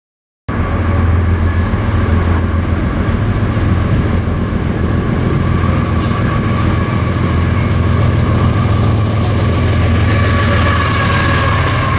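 A train running by, loud and steady, starting suddenly about half a second in, with a deep steady drone under higher tones; the rail noise grows toward the end.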